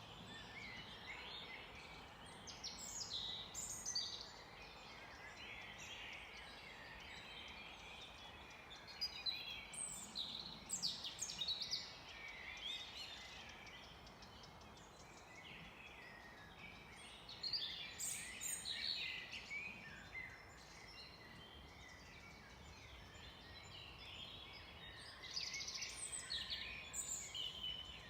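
Several small birds singing and chirping in quick runs of notes over a steady faint hiss of forest background, with four louder spells of song.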